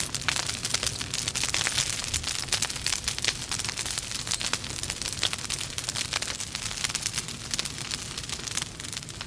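Logs burning in a fireplace, crackling steadily with many quick sharp snaps and pops.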